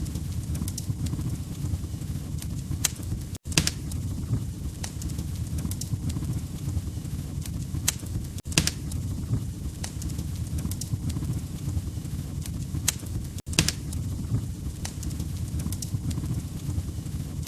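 Wood fire crackling: a steady low rumble of burning logs with scattered sharp pops and snaps. The sound drops out briefly about every five seconds.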